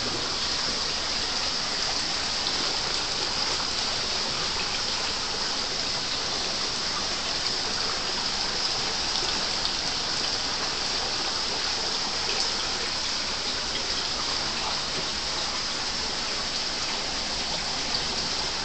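Water pouring steadily down a wall-mounted artificial fiberglass rock waterfall and splashing into the pond below: an even, unbroken rushing.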